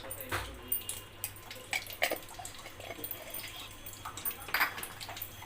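A spoon clinking against a kadhai of thin, watery curry gravy, with a few sharp taps a second or so apart and soft wet drips.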